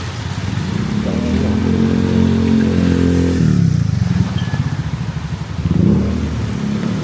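Motor vehicle engines passing close by on a city street: one engine's pitch climbs over the first few seconds and then falls away, and another swells past near the end.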